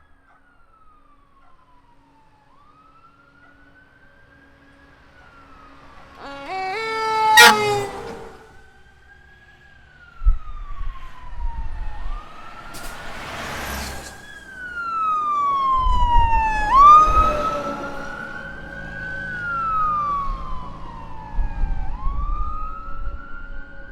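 Fire trucks passing with sirens wailing up and down, one of them a mechanical Federal Q siren. A loud air-horn blast comes about six to eight seconds in, falling in pitch as the truck goes by. From about ten seconds on, the heavy diesel engines of the trucks rumble past.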